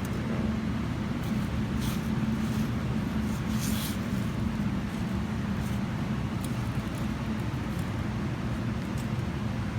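A steady low mechanical hum with a few brief faint ticks.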